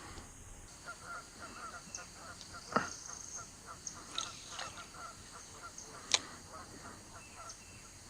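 Birds calling: a long run of short, rapid honking calls with faint high chirps over them, and two sharp knocks, about three and six seconds in.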